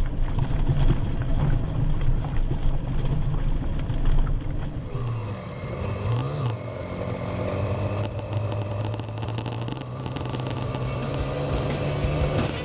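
Motorbike engine running on the road, with a brief rise and fall in engine pitch about six seconds in.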